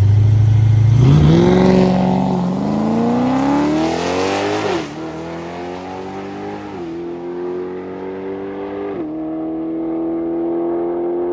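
A high-powered drag car launches hard and accelerates down the strip. The engine note climbs, drops sharply at three upshifts and climbs again after each, growing fainter as the car pulls away.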